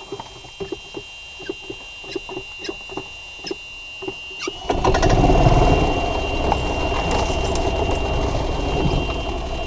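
A gas Club Car golf cart's engine. A run of light regular ticks, about two a second, gives way about halfway through to the engine suddenly coming up loud and running on steadily.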